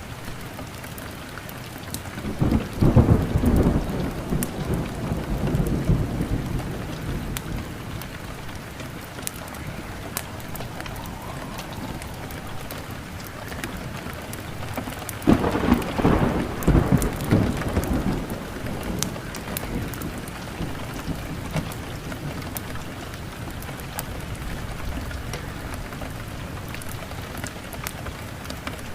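Steady rain with two rolls of thunder, the first starting about two and a half seconds in and the second about fifteen seconds in, each rumbling for several seconds.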